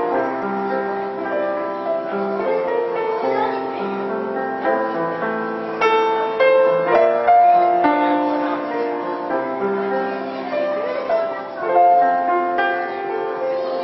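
Solo piano played live: a slow melody over held chords, notes sounding clearly and ringing on.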